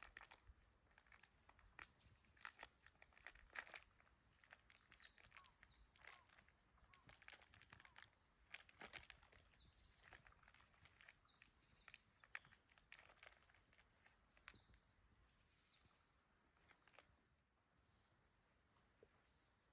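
Faint, steady high chirring of crickets, with a short chirp repeating about once a second, over scattered soft crackles and crunches that thin out in the second half.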